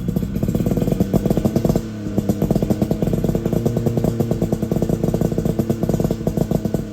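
Suzuki Jimny SJ30's three-cylinder two-stroke engine running through an APIO Matsumoto-type expansion chamber and muffler, its exhaust popping rapidly. The revs rise for about two seconds, fall back, then pick up again.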